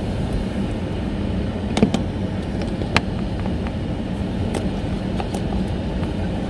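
Steady road and engine noise inside a 2019 Toyota RAV4's cabin while driving, with a few sharp clicks, the loudest about two and three seconds in.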